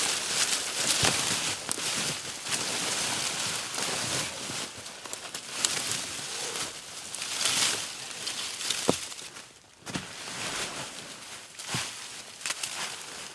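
Rustling and crunching of leaves and sticks, with a few sharp clicks.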